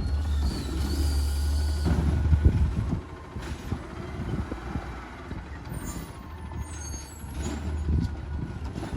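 Garbage truck's diesel engine running, loud for about the first three seconds and then quieter, with short high-pitched squeals about six to seven seconds in.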